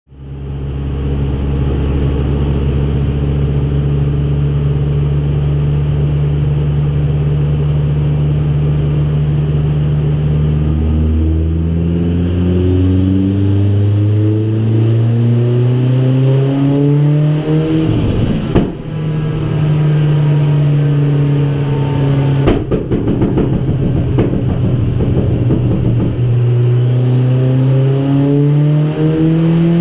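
Mitsubishi Lancer Evolution IX's turbocharged 4G63 four-cylinder engine running under load on a chassis dynamometer. It holds steady revs for a while, then climbs in pitch, breaks off abruptly, and after a steady stretch climbs again near the end, with a high whine rising along with the revs.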